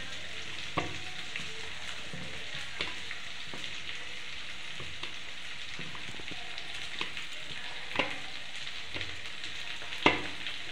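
Chopped onions frying in mustard oil in a kadhai, a steady sizzle, with a few light knocks over it, the loudest near the end.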